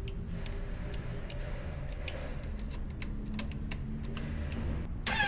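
Scattered light clicks and taps, like gear being handled, over a low steady rumble; a short louder rattle comes right at the end.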